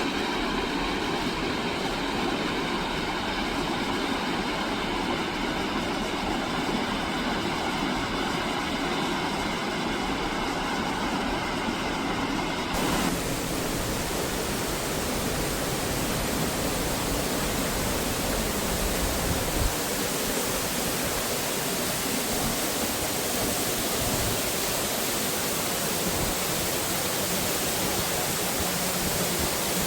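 Waterfall, a steady rush of falling water. About thirteen seconds in the sound abruptly turns brighter and hissier.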